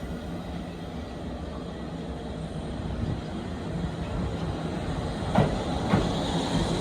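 Kintetsu 2410-series and 2610-series electric train pulling away, its running sound growing louder as it gathers speed. Near the end the wheels begin clacking over rail joints, a few knocks about half a second apart.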